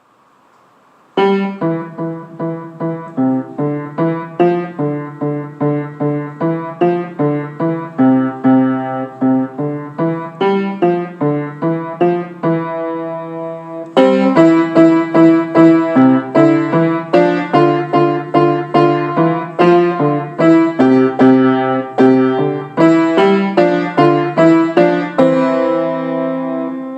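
Piano playing a simple children's-song tune, melody over chords. It starts about a second in, grows louder about halfway through, and ends on a held chord.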